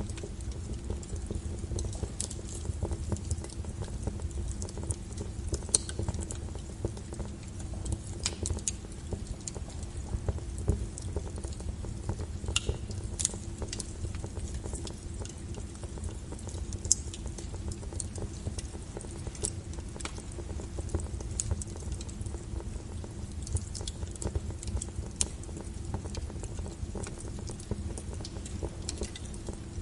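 Wood logs burning in a fireplace: a steady low rumble of the fire with scattered sharp crackles and pops, a few louder than the rest.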